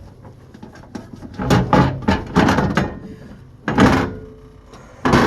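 Inside of a microwave being wiped clean after steaming: several bursts of rubbing and knocking against the cavity walls, the loudest about two seconds in and near the end.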